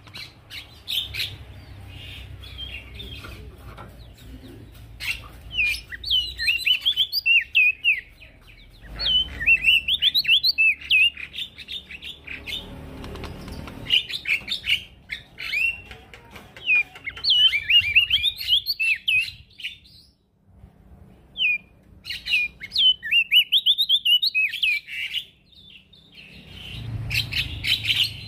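Male prenjak daun singing in busy bouts of rapid, high chirping phrases, with short breaks between bouts and a longer pause about twenty seconds in.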